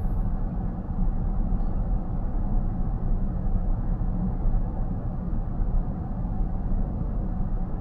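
Steady road and tyre rumble heard from inside a moving car's cabin, even and unbroken.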